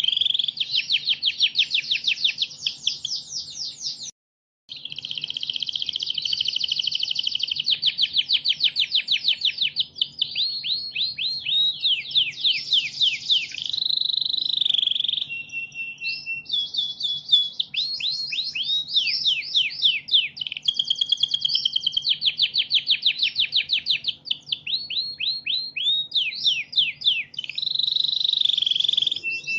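Domestic canary singing a long, continuous song of rapid trills and rolling phrases, with a brief dead silence about four seconds in.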